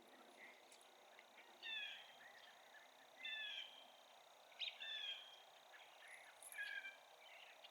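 Faint bird calls: four short groups of clipped, slightly falling notes, spaced about a second and a half apart, over a steady faint high-pitched tone.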